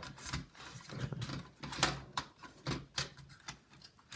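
Repeated sharp clicks and taps of plastic laptop parts as an internal cable connector is pressed into its socket on the motherboard, with a low pitched sound at times underneath.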